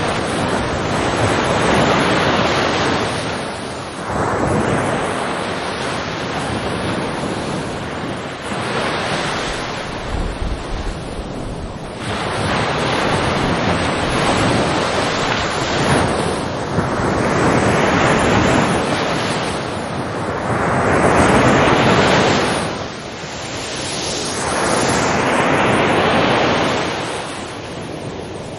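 Ocean waves breaking and washing ashore, the surf rising and falling in swells every few seconds.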